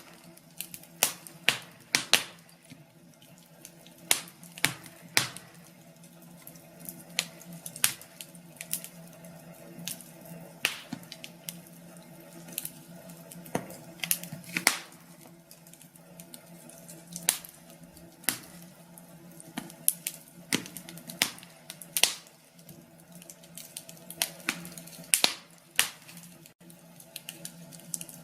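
Wood fire crackling in a fireplace: irregular sharp pops and snaps, a few each second, over a soft steady hiss.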